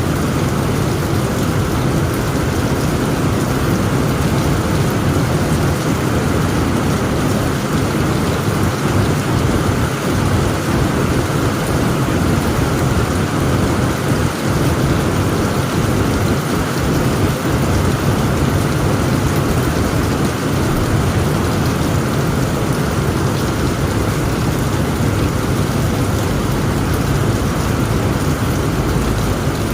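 Heavy rain falling steadily on a tent roof, with a low rumble of thunder underneath.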